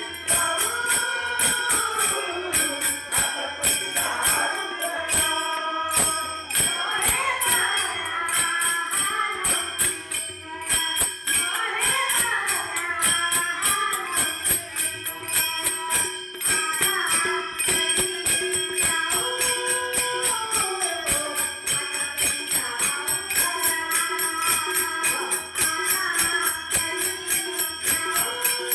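Women's bhajan group singing a Marathi devotional song, the voices gliding through long held phrases over a steady, fast beat of jingling hand percussion.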